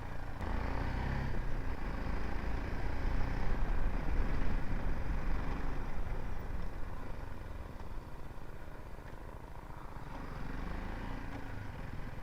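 BMW G 310 GS single-cylinder motorcycle engine running on the move, mixed with rushing wind on the rider's microphone; it grows somewhat quieter about seven seconds in.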